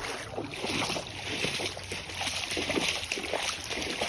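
Floodwater splashing and sloshing, with a steady hiss of moving water and many small irregular splashes.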